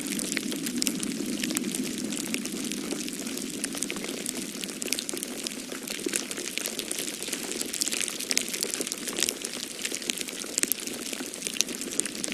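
Wood fire crackling in a fireplace, with many small irregular pops and snaps, over a steady low rush of storm wind.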